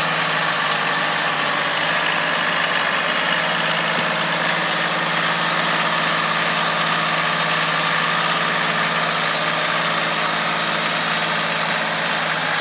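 Kioti tractor's diesel engine running steadily while its tires spin in slick snow without gaining traction: the tractor is stuck, which is blamed on its turf tires.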